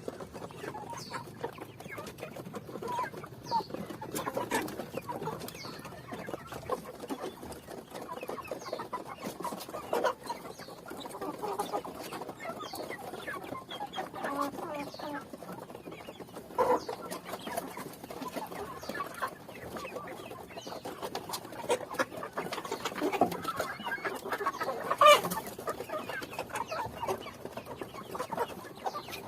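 A flock of chickens clucking, with many short calls overlapping throughout and one sharp, louder sound near the end.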